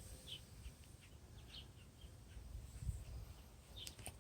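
Faint, short bird chirps scattered irregularly over a low rumble on the microphone, with a few sharp clicks near the end.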